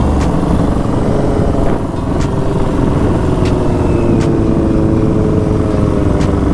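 Dirt bike engine running while riding, mixed with wind rush. The engine note holds fairly steady, with a brief dip in loudness about two seconds in and a slight drop in pitch near the end.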